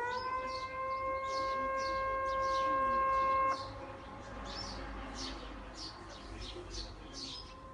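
Tsunami-warning siren wailing: its pitch climbs, then holds a steady tone that cuts off abruptly about three and a half seconds in, leaving a fainter steady tone. Quick high chirps repeat throughout.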